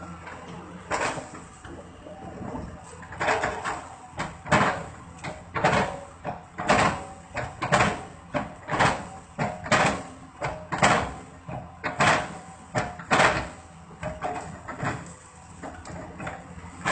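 Excavator working with its engine running, chopping old oil palm trunks into chips. The bucket strikes the wood in sharp, repeated blows, a few at first and then about two a second.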